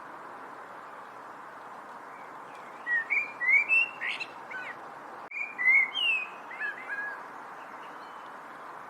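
A songbird singing two short phrases of quick, gliding whistled chirps, about three seconds in and again about five and a half seconds in, over a steady background hiss.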